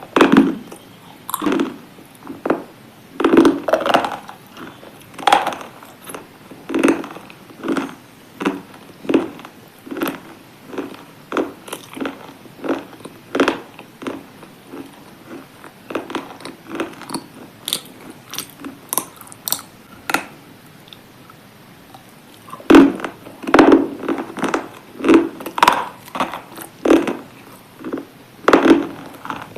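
A person biting into and chewing hard, brittle chunks: sharp crunches about once or twice a second, coming closer together about three quarters of the way through.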